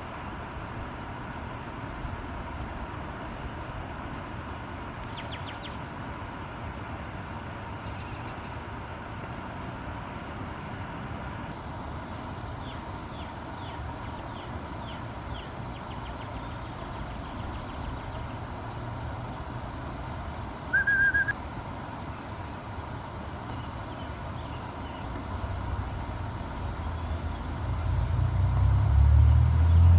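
Outdoor background with a steady low rumble and small birds chirping faintly now and then. A short high tone sounds about two-thirds through. Near the end a road vehicle passes and grows loud.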